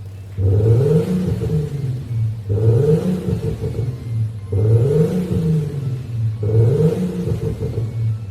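Porsche Cayenne with an Xhaust electronic active-sound exhaust giving a V8-style exhaust note, revved four times in a row about two seconds apart, each rev rising and falling in pitch.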